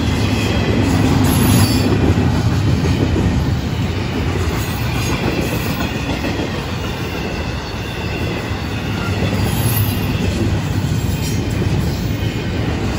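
Intermodal freight cars (double-stack well cars and trailer flatcars) rolling steadily past: a continuous rumble of steel wheels on the rails, with faint high wheel squeals coming and going.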